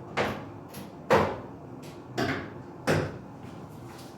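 Four sharp clacks about a second apart as hard parts of a shower head and handheld shower fitting are handled and knocked together.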